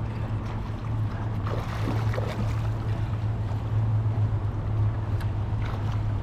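Water sloshing against a kayak hull over a steady low hum, with a few faint knocks and splashes while a hooked fish is played.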